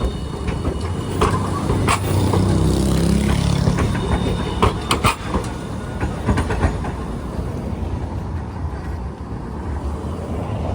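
Hiroshima Electric Railway streetcar running past among street traffic. A low rumble swells and fades over a few seconds, with sharp clicks from the wheels on the rails, several close together about five seconds in.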